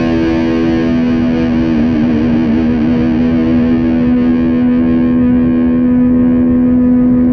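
Outro music: a single distorted electric guitar chord held ringing, wavering briefly about two seconds in.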